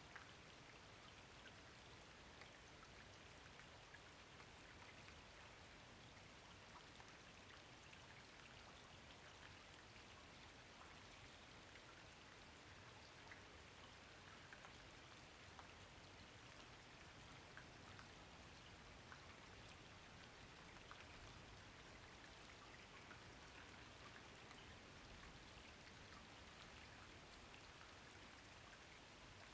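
Faint steady rain falling, a soft even hiss speckled with many tiny drop ticks.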